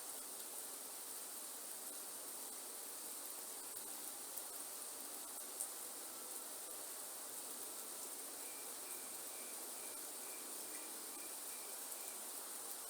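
Steady rain hiss in a rainforest under a continuous high-pitched insect drone. A single sharp click comes about halfway through, and near the end a short call repeats evenly, about three notes a second.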